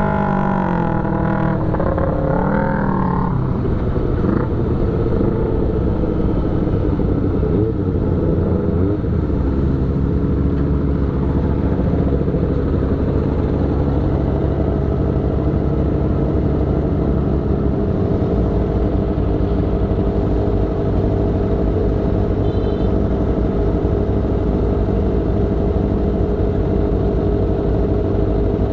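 Motorcycle engine running on the move: its note falls over the first few seconds as the bike slows, then holds steady for the rest of the stretch.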